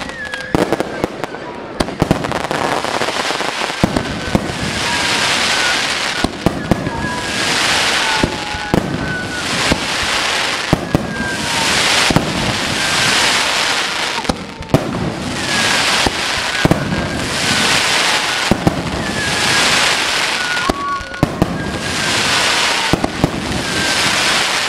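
Fireworks display: aerial shells bursting with sharp bangs again and again. A hissing wash of sound swells and fades about every two seconds, with short falling whistles among the bursts.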